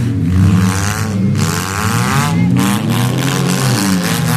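Several race car engines running at once, revving up and down as the cars race around the track.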